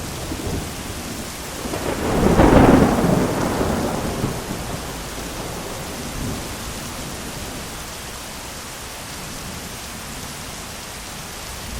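Steady heavy rain with a loud roll of thunder that swells about two seconds in and fades away over the next few seconds, then a smaller rumble.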